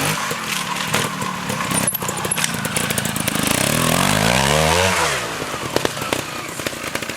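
Trials motorbike engine revving, climbing in pitch to a peak about five seconds in and then falling away quickly.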